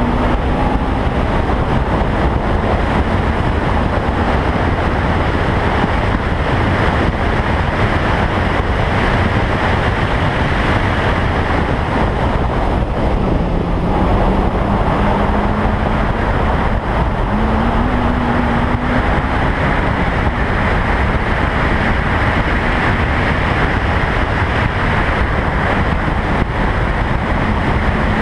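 Toyota Sprinter Trueno at speed on a race circuit, heard from an outside-mounted camera: heavy wind noise across the microphone nearly buries the engine note. The engine pitch drops about halfway through, then climbs again a few seconds later as the car accelerates.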